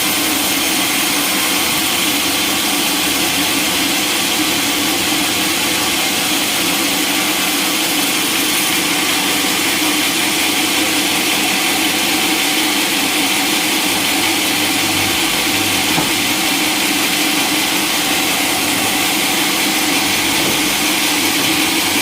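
Sawmill machinery running steadily: a continuous loud mechanical hiss with a steady hum underneath.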